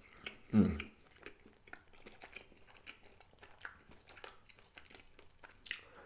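Close-up mouth sounds of a person chewing and biting cornbread dipped in gravy, with many small clicks and smacks. There is one brief, louder low sound about half a second in.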